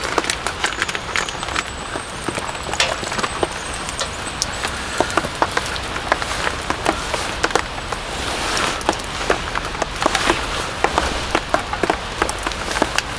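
Steady rain falling on a tent, with many single drops tapping irregularly on the fabric.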